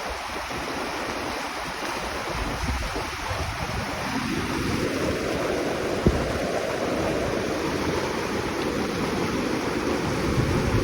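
A mountain river rushing steadily, with wind gusting on the microphone and a single sharp knock about six seconds in.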